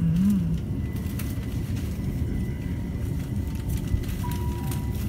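London Overground electric train running along the line, heard from inside the carriage: a steady low rumble and rattle.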